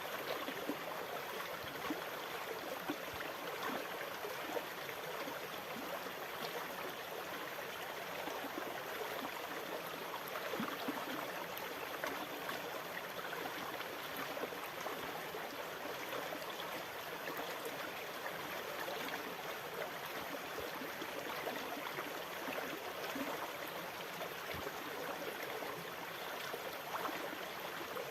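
Steady rushing water with small splashes and gurgles, holding even without distinct wave breaks.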